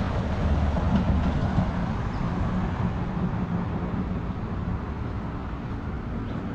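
A motor or engine running with a steady low rumble and hum, easing off slightly toward the end.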